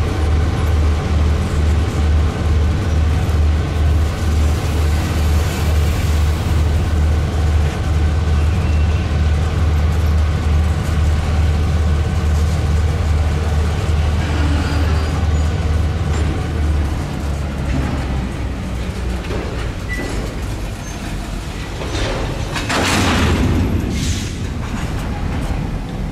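Freight cars rolling past on the rails: a steady deep rumble of wheels on track, which drops away about two-thirds of the way through. Near the end comes a short louder rush of noise with a few sharp clanks.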